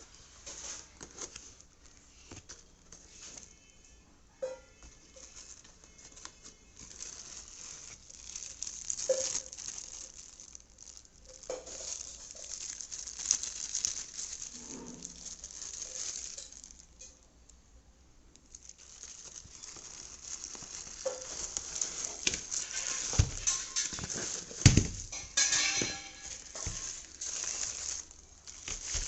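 Packaging being handled and opened: rustling and crinkling with irregular small clicks and knocks, and a few heavier thumps near the end.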